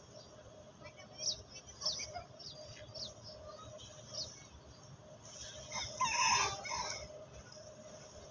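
Several short, high chirps from birds, then one loud bird call about six seconds in, lasting about a second and a half.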